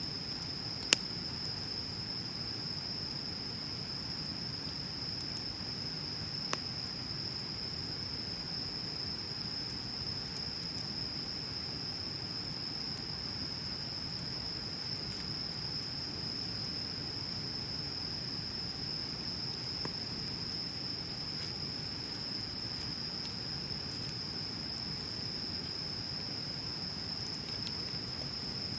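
Wood bonfire burning with a low steady rush and sparse crackles, one sharp pop about a second in and a smaller one around six seconds, over a steady high-pitched trill.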